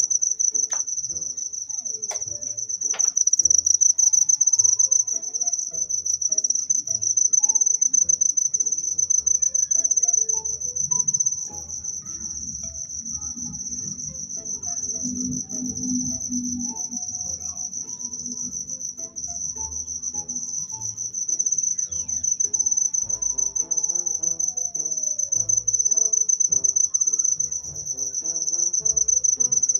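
Cricket chirping in one continuous high-pitched trill that swells and fades in loudness several times.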